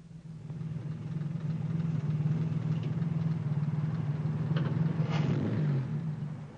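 Car engine running steadily as a convertible sports car drives along, coming up in level over the first second. Its pitch drops about a second before the end.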